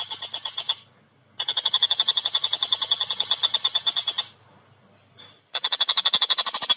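Tengkek buto kingfisher calling in fast runs of sharp repeated 'kek' notes, about ten a second, in three bursts with short pauses between them.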